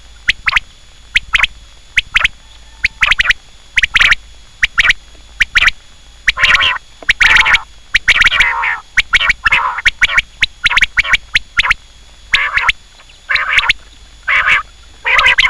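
Quail calling over and over: short calls in quick, uneven succession, with a few longer calls about halfway through.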